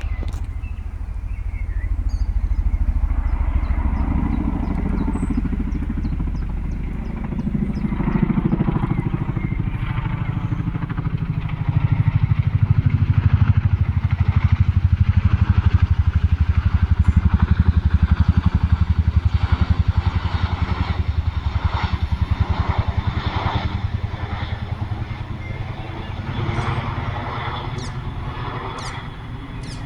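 Helicopter flying low overhead: a fast, pulsing rotor beat that builds, is loudest about halfway through, and fades toward the end.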